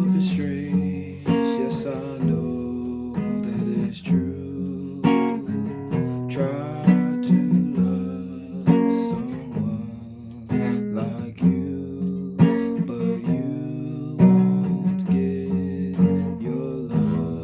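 A guitar being played, mixing strummed chords with single picked notes in an uneven rhythm.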